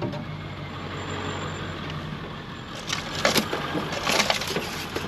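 Ford F-350 pickup's engine running low and steady as the truck crawls down a rough trail, with two brief harsh noises about three and four seconds in.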